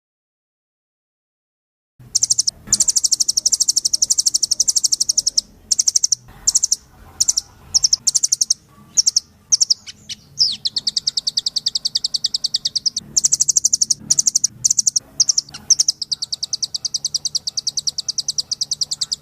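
A rambatan loreng (nuthatch) songbird singing in full voice. It gives high, rapid trills of fast-repeated notes in runs broken by short pauses, starting about two seconds in.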